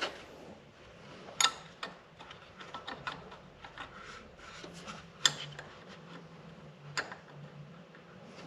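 Light clicks and clinks of metal bracket parts and hardware being worked into place by hand on a tractor engine, with a few sharper knocks spread through.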